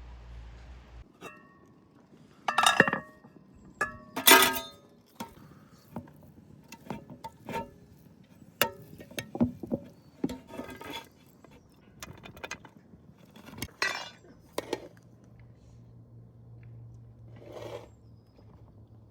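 Dishes and glassware clinking and clattering: an irregular run of sharp knocks, a few with a brief ringing tone, the loudest clatters about three and four seconds in.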